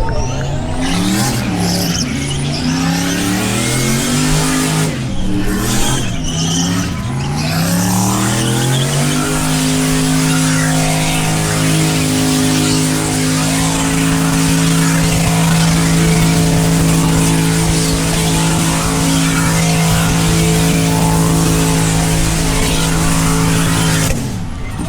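Muscle car's V8 doing a burnout: the engine is blipped up and down for the first several seconds, then held at steady high revs with the rear tyres spinning in a continuous hiss for about fifteen seconds, before the revs drop off sharply near the end.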